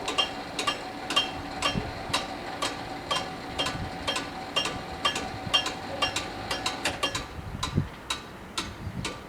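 Level crossing warning bells ringing, a steady run of sharp metallic strikes at about four a second.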